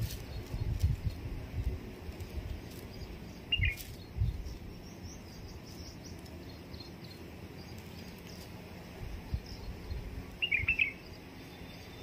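Two short bird chirps, one about three and a half seconds in and a quick cluster about ten and a half seconds in, over faint high chirping in the background. Low thumps come and go in the first few seconds.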